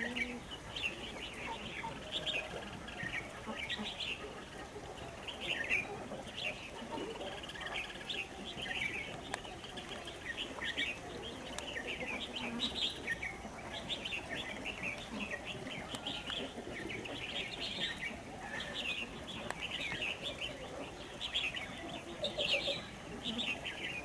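A flock of red-whiskered bulbuls calling, many short overlapping chirps following one after another.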